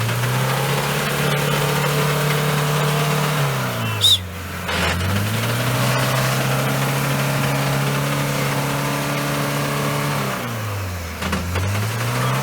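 Off-road vehicle's engine revved hard and held at high revs in two long pulls, the revs dropping back and climbing again about four seconds in and again near the end, as the driver tries to get the vehicle out of deep mud. A brief loud high squeak sounds about four seconds in.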